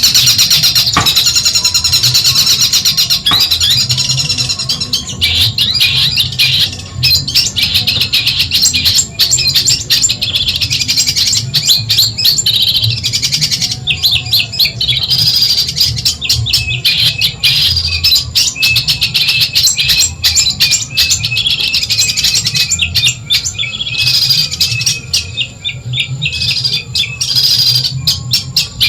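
Long-tailed shrike (cendet) singing a fast, unbroken run of sharp chirps and chattering notes, over a steady low hum.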